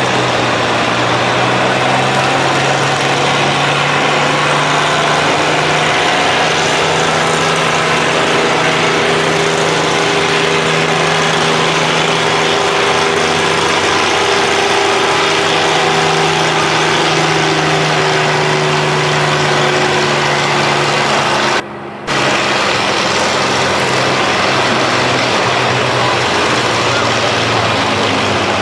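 Farm tractor engine running hard and steadily under load, its pitch sagging slowly in the middle, with a brief dropout about three-quarters of the way through.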